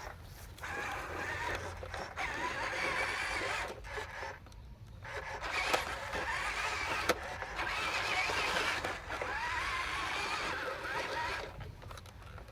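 Small electric motors and plastic gearboxes of radio-controlled Huina construction models whirring in several start-stop runs, their pitch wavering as they drive.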